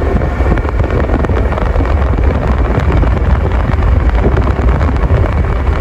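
Heavy wind rumble buffeting the microphone while travelling along a road, with steady vehicle noise beneath.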